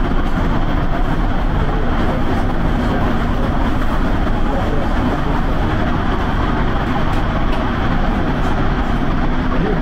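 Steady rumble and rush of a moving passenger train.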